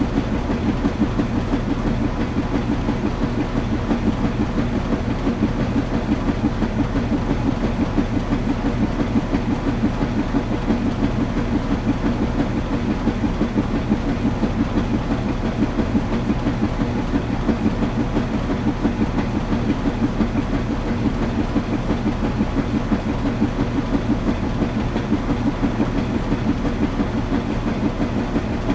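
Washing machine running: a steady low rumble with a fast, even pulsing of about three beats a second and a faint steady hum.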